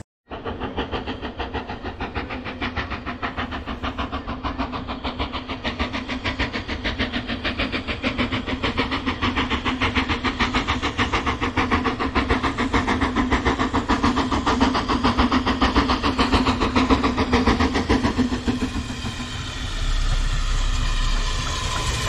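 A train running: a fast, even pulsing beat with a steady hum underneath, growing louder. Near the end, falling tones come in and the sound becomes louder and more even.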